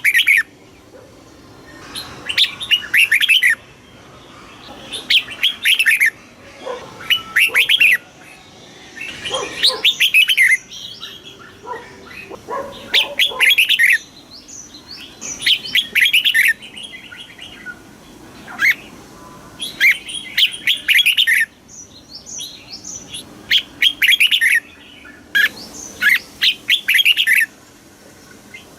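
Red-whiskered bulbul singing: short, loud phrases of quick chirping notes, repeated every couple of seconds with brief pauses between.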